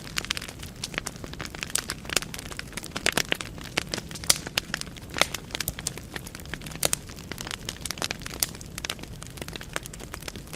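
Firewood burning in a fireplace: a steady low rush of flame with frequent irregular sharp crackles and pops from the burning logs.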